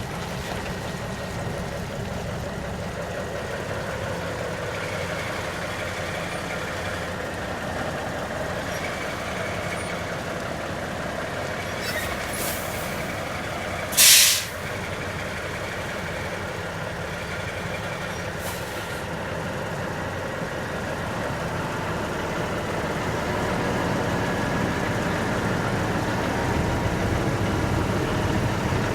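International S 2200 truck's Cummins 400 inline-six diesel idling steadily, growing a little louder in the last third. About halfway through there is a short, loud hiss of released air from the truck's air brake system, with two fainter hisses shortly before and after it.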